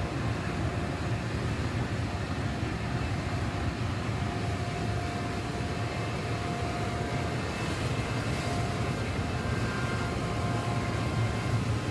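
Heavy road repair machine's engine running steadily with a continuous low drone.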